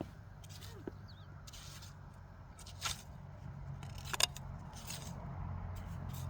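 Hand hoes scraping and digging in soil, a few short strokes spread out over several seconds. A vehicle's engine hum comes in low and grows louder over the last second or two.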